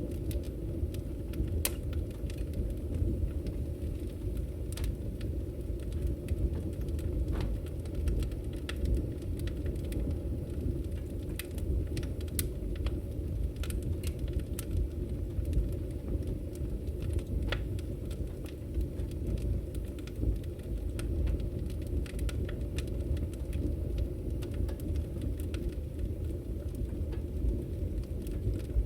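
Wood fire burning in a fireplace: a steady low rumble of the flames with scattered sharp crackles and pops from the burning firewood at irregular intervals.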